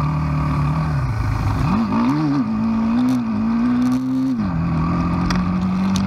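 Motorcycle engine running under load on a rough dirt track through a shallow stream crossing. About two seconds in the revs rise unevenly and hold higher, then drop back to a steady lower note a little after four seconds.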